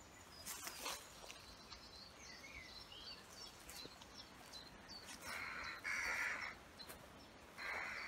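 Outdoor birdsong: small birds chirping faintly in the first half, then three louder, harsh calls in the second half.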